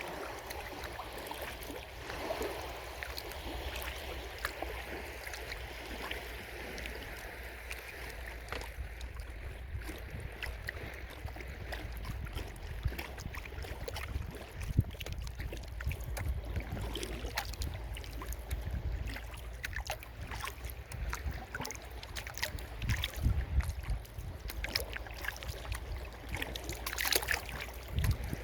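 Kayak paddle strokes dipping and splashing in shallow stream water, with a steady low rumble underneath. The splashes get louder and more frequent after about twenty seconds.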